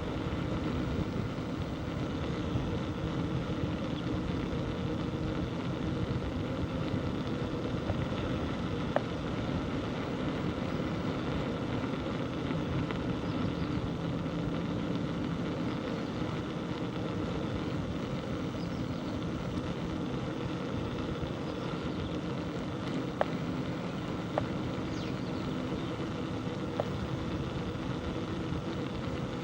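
Steady rolling and wind noise from a bicycle ride on a village road, with a few sharp clicks and ticks.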